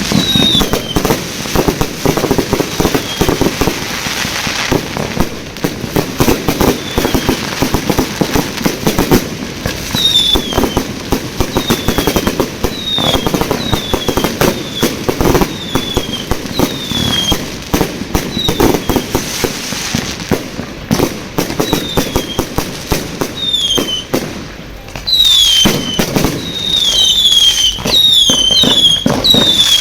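Fireworks display going off: a dense, continuous run of bangs and crackles with many short, falling whistles, getting busier and louder near the end.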